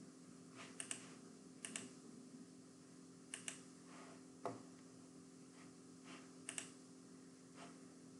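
A few scattered keystrokes on a computer keyboard, several coming as quick double clicks, with one duller knock about halfway through. A faint steady low hum lies underneath.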